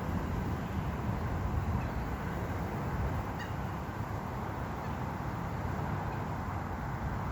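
Steady low outdoor rumble with a single short bird call about halfway through.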